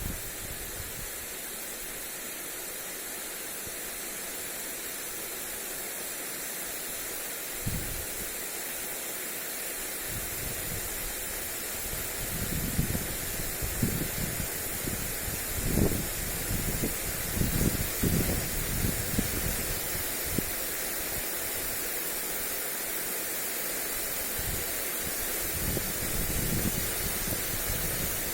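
Lawn sprinkler spraying water onto grass, a steady hiss. Wind gusts buffet the microphone with low thuds, heaviest through the middle and again briefly near the end.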